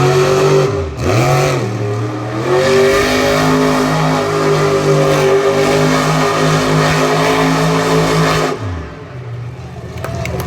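Monster truck engine blipped a couple of times, then held at high revs for several seconds before backing off sharply near the end.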